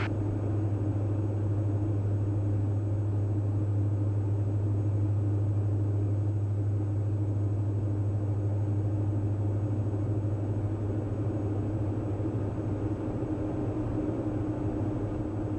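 Steady cabin drone of the Diamond DA42 NG's twin Austro AE300 turbodiesel engines and propellers in level cruise: a constant low hum with a fainter higher tone above it.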